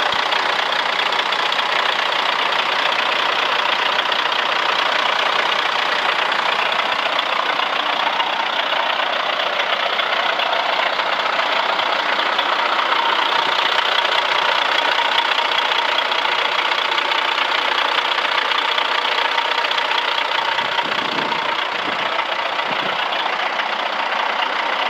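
The diesel engine of a 2003 International 7000 truck running steadily at idle.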